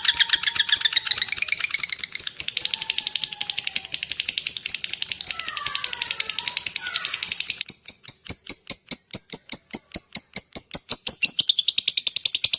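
Lovebird chattering in a long unbroken run of sharp, high chirps, several a second: the rapid 'ngekek' call. A little before the end the chirps drop slightly in pitch and run together.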